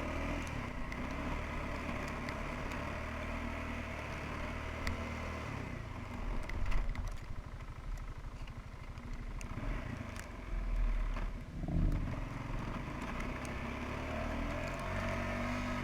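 QuadRunner 300 ATV engine running under throttle in deep snow. The engine note wavers and surges a few times partway through as the quad fights for traction.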